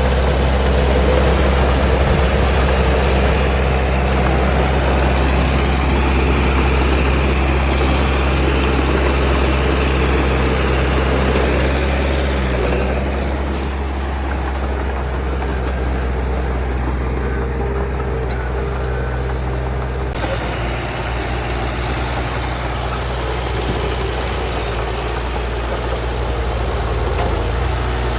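Heavy diesel engine of earthmoving machinery running steadily, with a deep, even engine tone; the sound shifts abruptly about twenty seconds in.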